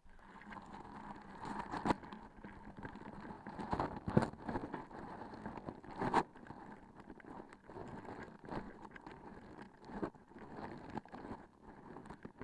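Sticky transparent objects being pressed and handled right against the microphone: a continuous tacky rustling full of small clicks, with sharper, louder snaps about two, four and six seconds in.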